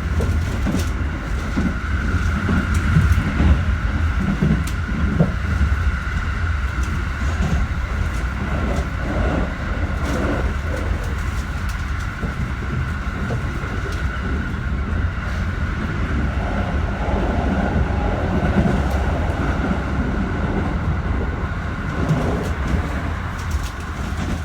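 Keikyu 1000-series electric train running between stations: a steady low rumble of wheels on track with scattered rail clicks and a steady whine throughout.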